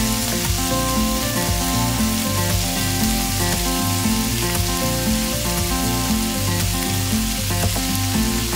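Ground pork, minced garlic and ginger, and chopped enoki mushrooms sizzling steadily in an oiled nonstick frying pan over high heat while being stirred with a spatula. Background music with changing notes plays underneath.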